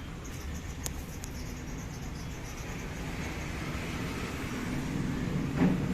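Steady low rumble of passing road traffic, with a couple of light clicks about a second in.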